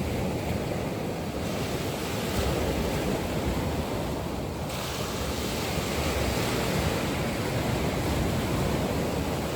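Sea waves surging and washing onto a shore, a steady rushing surf. The hiss turns brighter twice, about a second and a half and about five seconds in.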